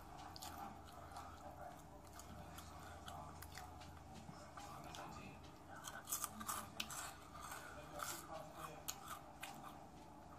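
Close-miked chewing: a string of wet mouth smacks and small crunches, busier and louder from about six seconds in.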